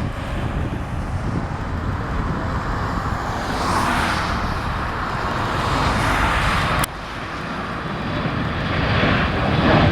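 Boeing 767-300 jetliner's twin turbofan engines heard on approach: a steady, loud rushing rumble. About seven seconds in there is a sharp click and the level drops suddenly, then the jet noise builds again.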